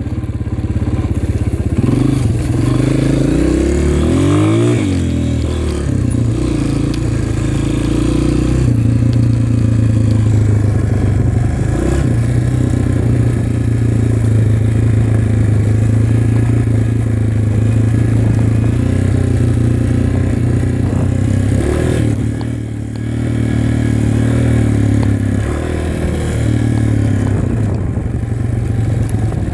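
Dirt bike engine running under way: revving up and down in the first few seconds, then holding a steady pitch. Its note drops briefly as the throttle eases off about 22 seconds in, then picks up again.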